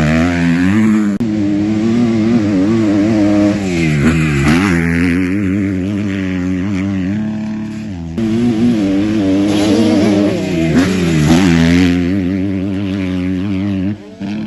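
Kawasaki KX250F's single-cylinder four-stroke engine revving hard, its pitch climbing and falling again and again as the throttle is opened and shut through the gears. The engine drops sharply in loudness near the end.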